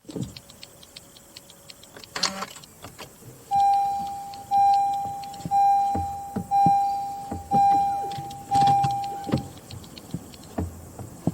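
Honda Accord Hybrid's warning chime sounding six times, about once a second, each tone the same pitch and fading out, among small clicks from the cabin. A single thump comes about two seconds in, before the chimes.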